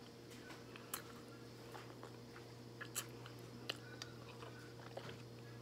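Close mouth sounds of a person chewing a mouthful of chicken: a handful of soft wet clicks and smacks, over a steady low hum.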